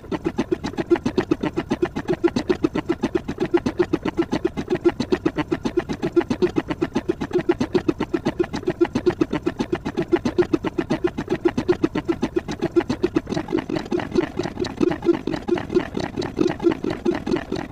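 A low sound clip repeated rapidly and evenly, about six pulses a second, with no break.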